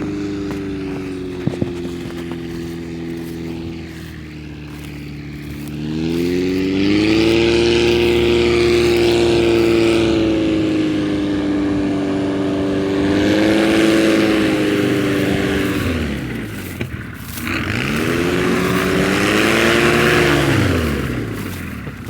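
Piper Cub light aircraft's propeller engine running. Its speed rises sharply about six seconds in and holds, dips and picks up again about two-thirds of the way through, then drops away near the end.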